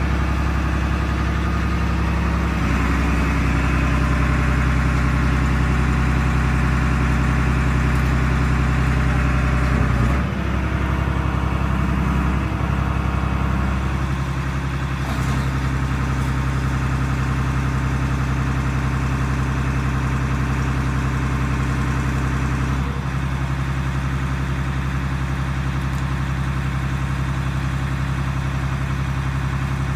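Engine of a mobile car crusher running steadily as it powers the machine's hydraulics, its note shifting several times as the load changes.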